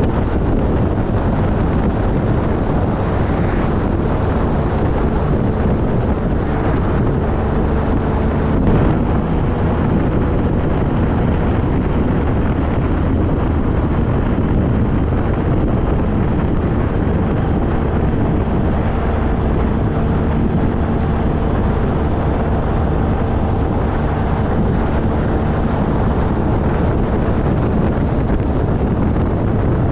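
2013 Triumph Trophy SE's inline three-cylinder engine running at a steady cruise while riding, with wind rushing over the microphone. A brief sharp click about nine seconds in.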